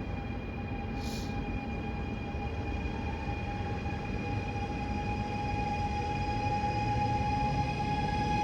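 Approaching train: a steady rumble with a high whine of several held tones, growing slowly louder, with a short hiss about a second in.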